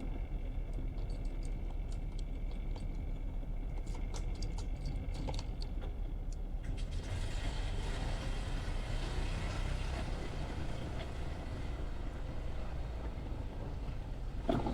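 A steady low engine rumble, joined about seven seconds in by a broader rushing hiss.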